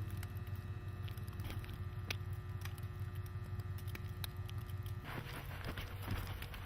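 Car on a snowy road with chains on its tires, heard from inside the cabin: a steady low drone with scattered clicks of the chains. About five seconds in, the faint steady whine drops out and a rougher, crunchier hiss with more clicking takes over.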